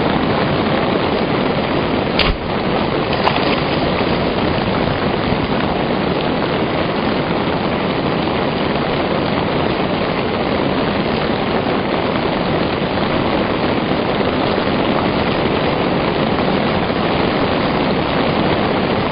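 Steady rain hiss, with two short sharp clicks about two and three seconds in.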